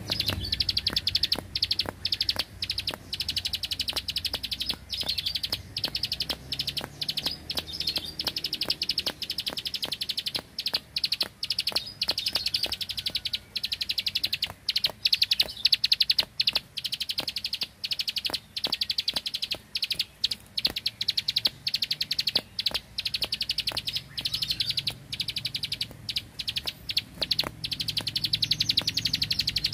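A prinia singing a long, rapid, machine-gun-like string of high, sharp clicking notes, the 'ngebren' burst song prized in Indonesian songbird keeping.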